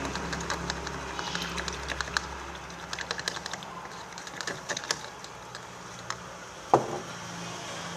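A stirrer clicking and tapping irregularly against the side of a container while glue and water are stirred together for slime, with one louder knock near the end.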